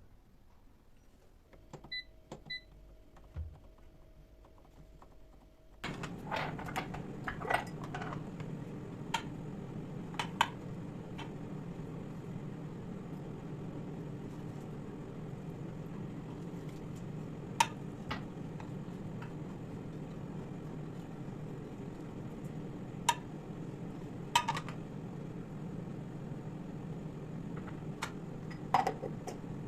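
A kitchen appliance gives two short electronic beeps as it is set, then starts running about six seconds in with a steady hum. Scattered sharp clicks and clinks sound over the hum.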